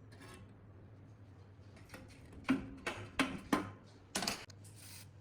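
Work on the rusty metal desk fan: a quick run of five sharp knocks and clicks of metal parts being handled, a little past the middle, over a faint steady low hum.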